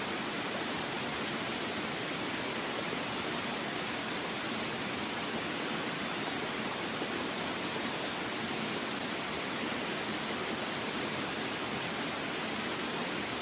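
Mountain river rushing: a steady, even hiss of flowing water.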